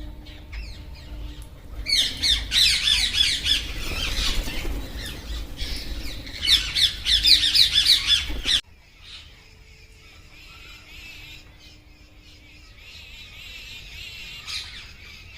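A flock of parrots squawking: a dense chorus of harsh, overlapping calls that grows loud about two seconds in, then drops suddenly to fainter scattered calls a little past halfway.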